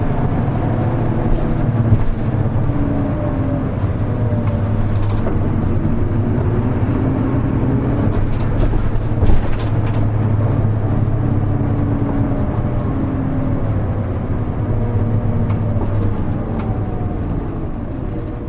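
Interior running noise of a Hino KL-HR1JNEE city bus: the diesel engine and drivetrain hum steadily while cruising between stops, with sharp cabin rattles and clicks, the loudest about nine seconds in. Near the end the sound eases and drops in pitch as the bus slows.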